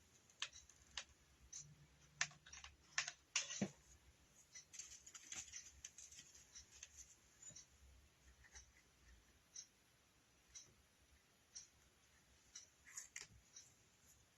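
Near silence with faint, scattered clicks and taps of hands working rope onto a craft form with a hot glue gun, a small cluster of them near the end.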